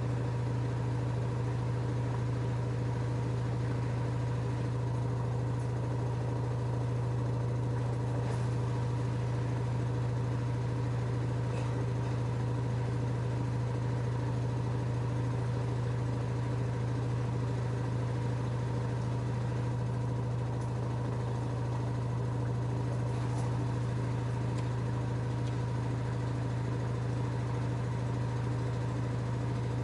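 LG F10A8HDS5 front-loading washing machine spinning at a steady high speed: an even, unchanging motor and drum hum.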